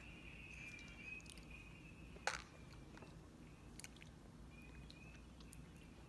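Near silence: faint room tone with one short click a little over two seconds in.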